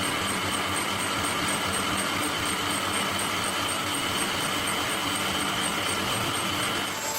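Workshop machinery running steadily, an even mechanical noise with a steady high whine and a faint pulsing tone; the sound changes abruptly right at the end.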